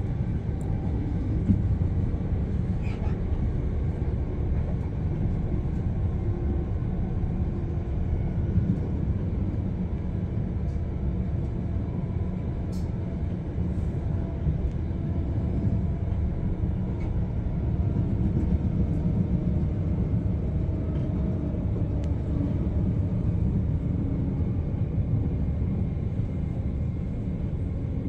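Steady low rumble of a passenger train running, heard from inside the carriage, with a few light clicks.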